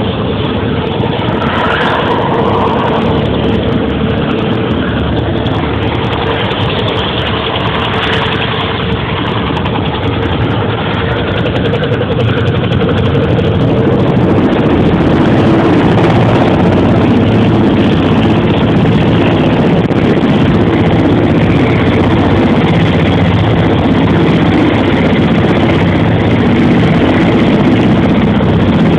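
Helicopter running: a steady engine noise with a held tone, growing louder about halfway through and then staying level.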